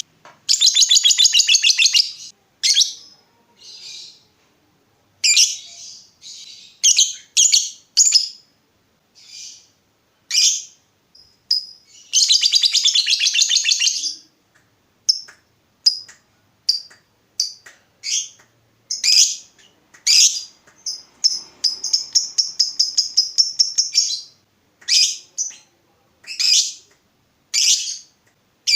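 Lovebird in full song: long rapid chattering trills ('ngekek') near the start, about twelve seconds in and about twenty seconds in, with many short sharp high chirps between them.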